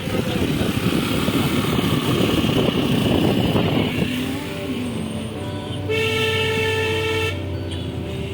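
A car on the move, with road and engine noise heaviest in the first few seconds. About six seconds in, a vehicle horn sounds once, holding a steady tone for about a second and a half.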